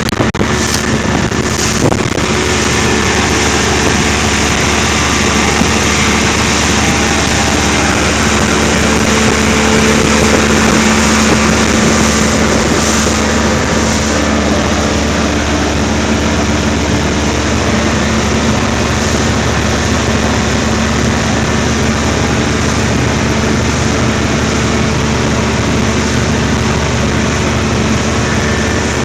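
An engine running steadily under way, a constant hum over a rushing noise that holds level throughout.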